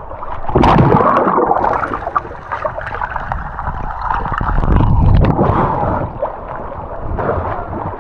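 Rushing water of a river rapid, with splashing and a rumble of wind on the microphone.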